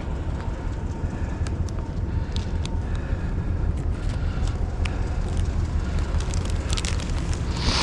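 Truck driving along with a steady low rumble of engine and road noise, and scattered small clicks and rattles.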